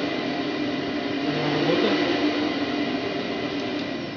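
Bosch Serie 2 vacuum cleaner running at maximum power: a steady rushing airflow over a motor hum with a high whine, starting to fade and wind down near the end.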